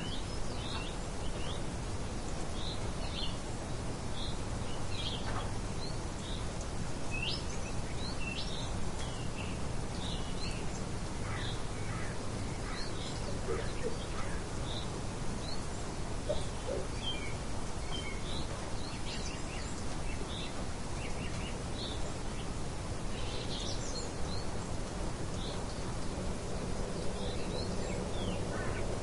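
Birds chirping, many short calls scattered throughout, over a steady windy hiss.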